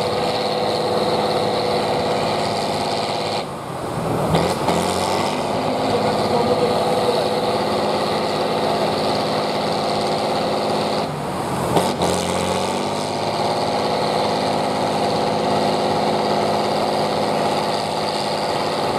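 Competition truck's engine running hard and steady, with the revs dropping and climbing back twice, about three and a half and eleven seconds in.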